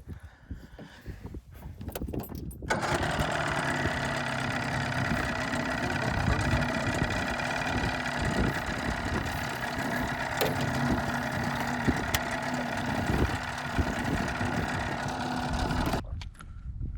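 Boat engine starting about three seconds in and running steadily, then cutting off suddenly shortly before the end.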